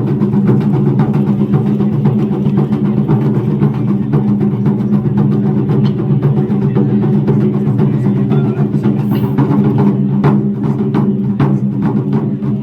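Japanese taiko drums played in a fast, continuous roll of strikes, with a few louder single strikes near the end.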